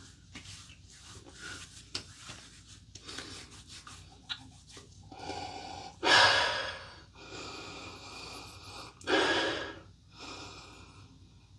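A man breathing deeply close to the microphone: two loud breaths out about three seconds apart, each followed by a longer, quieter breath, after faint small clicks and rustles of handling. The breathing comes while the alcohol aftershave splash is stinging his freshly shaved face.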